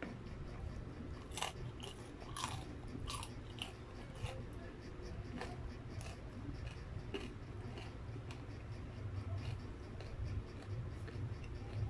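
Close-up chewing and biting of breaded fried chicken: scattered crunches and wet mouth clicks, over a steady low hum.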